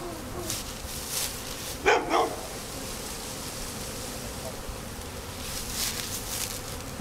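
Swarm of honey bees buzzing as a steady hum, with a dog barking twice in quick succession about two seconds in.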